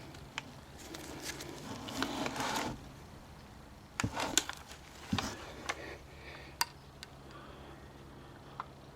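Scattered clicks and knocks of hard parts and tools being handled, with a short scraping noise about two seconds in.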